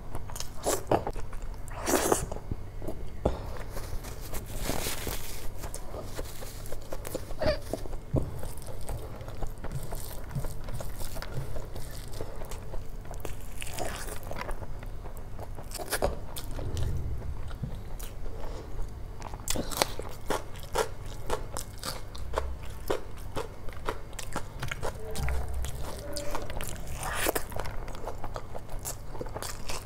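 Close-miked eating: a person chewing big mouthfuls of rice and curry eaten by hand, with many short mouth smacks and clicks throughout.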